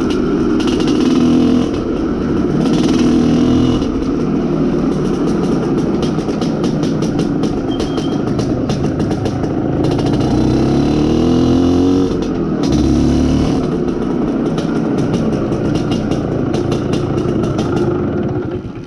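IZh Planeta Sport's single-cylinder two-stroke engine running under way while being run in, its pitch rising and falling with the throttle, with wind buffeting the microphone. The engine note drops away right at the end.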